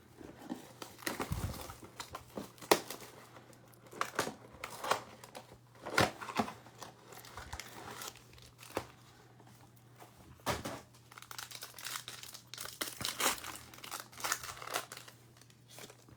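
Plastic wrapping crinkling and tearing as a sealed trading card box and its card packs are opened by hand, with irregular crackles and snaps. A faint steady hum runs underneath.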